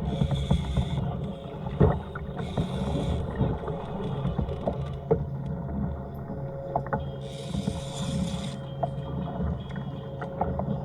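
Choppy water splashing against a fishing kayak's hull, coming in bursts about every few seconds over a steady low rumble, with scattered sharp knocks.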